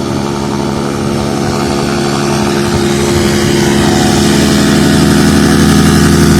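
A Bajaj Pulsar NS200 motorcycle engine driving the propeller of a homemade amphibious aircraft, running at speed with a steady note and growing louder as the craft approaches.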